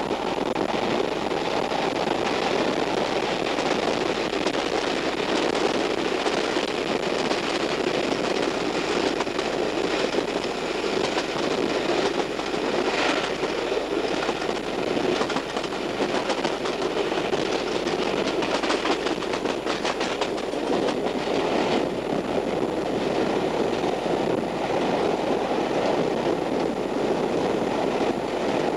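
Running noise of a passenger train heard from on board: a steady rumble of wheels on track, with clicks from rail joints and pointwork in the middle and a short squeal about halfway through.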